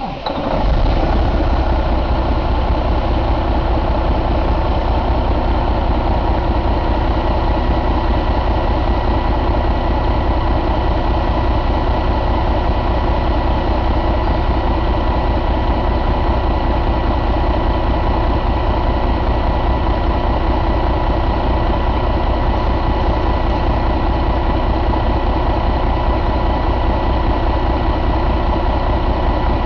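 Detroit DD15 14.8-litre inline-six diesel engine starting up about half a second in, then idling steadily.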